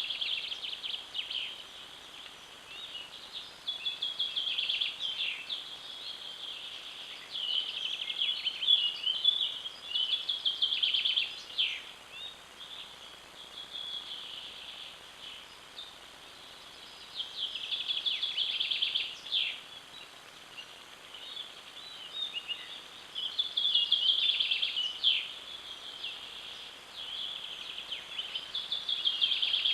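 Songbird singing in high-pitched phrases of one to two seconds, each a rapid trill with falling sweeps, repeated every few seconds.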